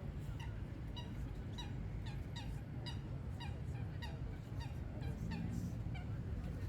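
A bird calling over and over in short, downward-sliding notes, about two a second, over a steady low rumble.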